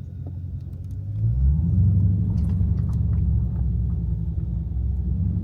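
Dodge Challenger Scat Pack's 392 HEMI V8 running with a deep low rumble, rising in pitch and getting louder about a second in as the car picks up speed, then holding steady.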